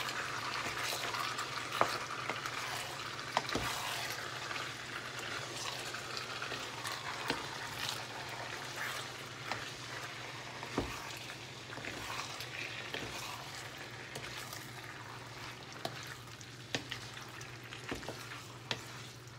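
Chicken and vegetables sizzling in a hot wok while a wooden spatula stirs in tomato paste, with scattered taps and scrapes of the spatula against the pan. The sizzle eases slightly toward the end.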